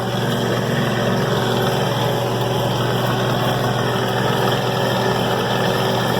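New Holland 1400 combine's engine running steadily as the machine drives along, an even, unchanging drone.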